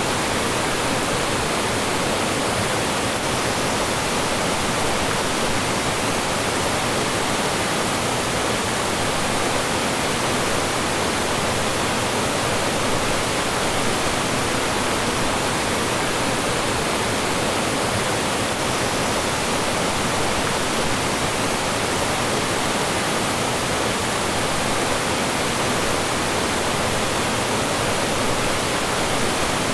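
Mountain stream rushing over rocks and small falls: a steady, even wash of water noise.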